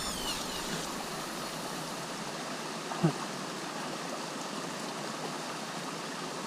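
River water flowing steadily over stones, with a brief louder sound about three seconds in.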